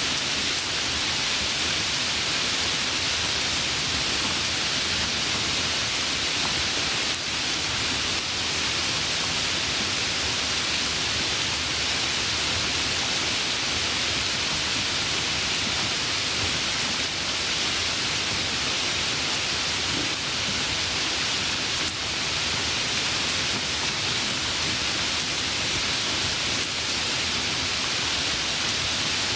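Light rain falling steadily: an even hiss with no breaks, the odd faint drop tick standing out here and there.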